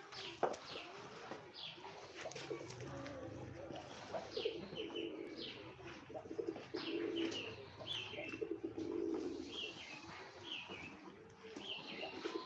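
Birds calling: low calls repeated over and over, with short, high falling chirps from smaller birds scattered through.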